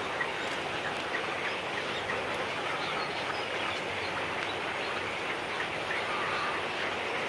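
Birds calling in many short chirps over a steady background hiss.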